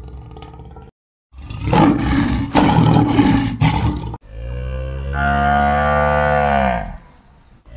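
A lion roaring for about three seconds, starting about a second in, then one long cow moo that falls in pitch as it ends.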